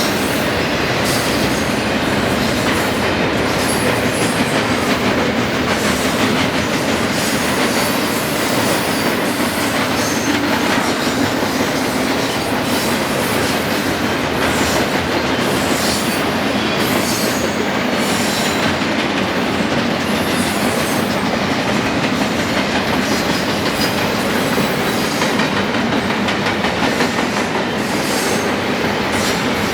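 A train's railcars rolling past, a steady rumble and clatter of wheels on the rail that runs unbroken and even throughout.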